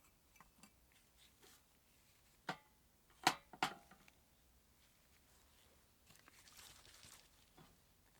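Small hard parts being handled: three sharp clicks about two and a half to three and a half seconds in, the last with a brief metallic ring, amid faint handling rustle and a soft scrape later on.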